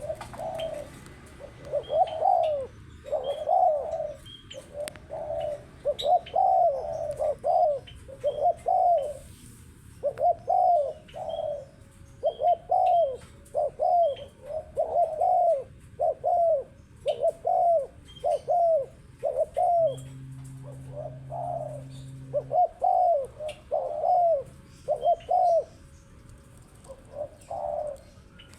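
Spotted dove (tekukur) cooing over and over: a long run of short, low, rounded coos about half a second each, grouped in phrases with brief pauses between them.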